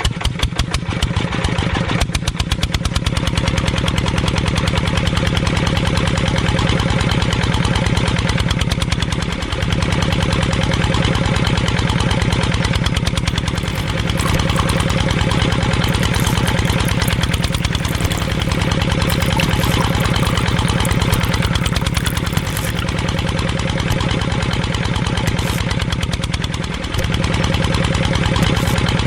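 Small engine of a miniature model tractor running steadily with a fast, even beat, starting up just as the sound begins.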